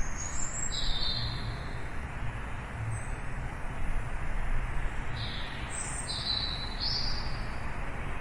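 Birds chirping in short high calls, a couple about a second in and a cluster of about four near the end, over a steady rush of background noise.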